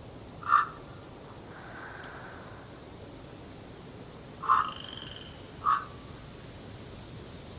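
Three short, loud animal calls over a steady background hiss of forest ambience, with a faint high whistle alongside the second call.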